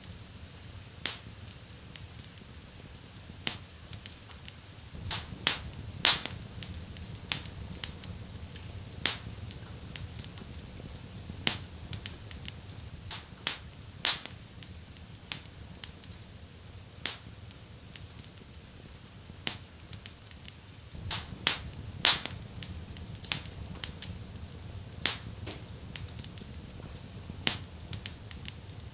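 Wood fire burning in a fireplace, crackling with irregular sharp pops, some much louder than others, over a steady low rumble.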